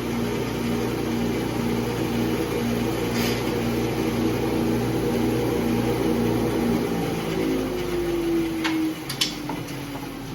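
Bandsaw and shop dust collector running with a steady hum. About seven seconds in, a motor is switched off and its pitch falls as it winds down, followed by a couple of light clicks.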